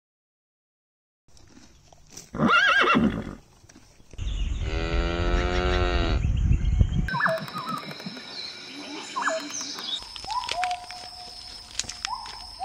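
Animal calls in a row after a moment of silence: a short pitched call about two seconds in, a longer pitched call of about three seconds from about four seconds in, then a run of high whistling calls and short glides.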